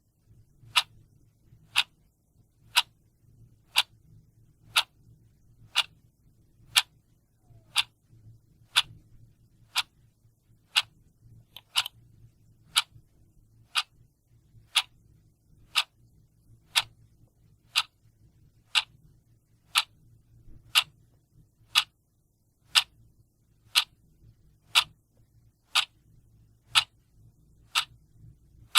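Clock ticking steadily, about one tick a second, each tick a sharp, even click.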